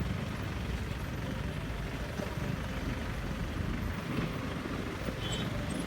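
Motorcycle on the move, its engine running under heavy rumbling wind noise on the microphone.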